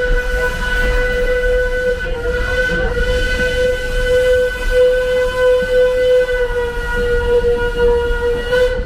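Steam locomotive whistle blowing one long, steady blast that cuts off near the end, over a low rumble.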